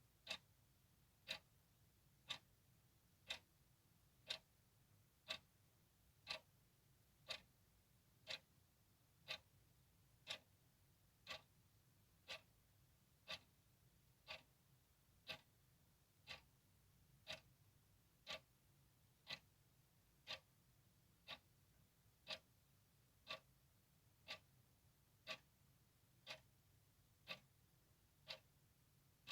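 A clock ticking steadily, one tick about every second, with a faint low hum underneath.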